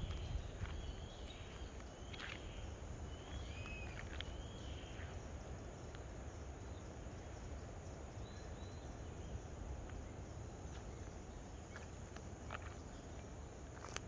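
A bird calling a series of short arched notes over the first five seconds, over a steady low rumble, with a few faint clicks later on.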